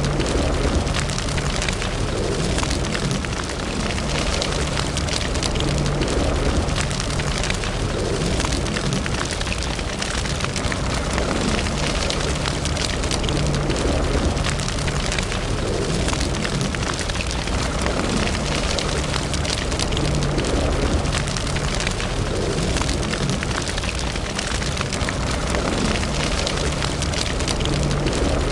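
Fire burning in a fireplace: a steady rush of flames with many small crackles and pops throughout, over a low rumble.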